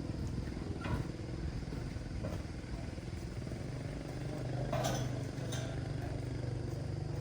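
A motorcycle engine idling steadily, getting a little louder about four seconds in, with a few light knocks.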